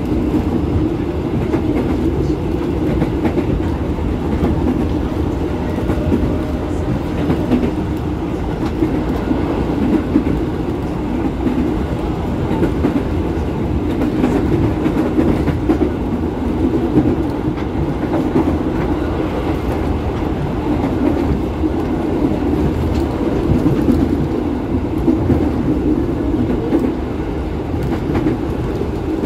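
Electric commuter train running at a steady speed, heard from inside the car. The wheels and running gear make a continuous, even noise with no clear rise or fall in pitch.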